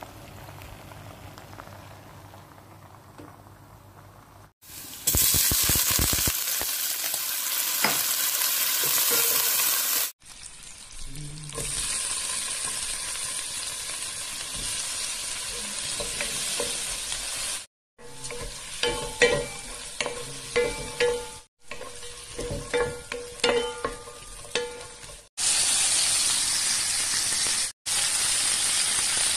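Shrimp, fishballs and chicken liver sizzling in hot oil in a non-stick pan, in several stretches that stop and start abruptly. In the middle stretch, stirring knocks and scrapes against the pan sound over the sizzle. The first few seconds are quieter.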